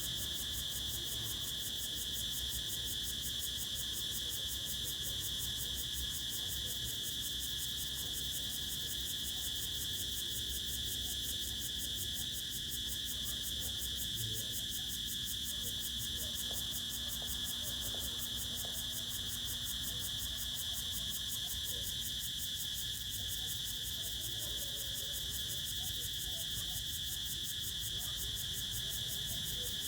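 Crickets trilling in a continuous, steady high-pitched chorus, with a faint low rumble underneath.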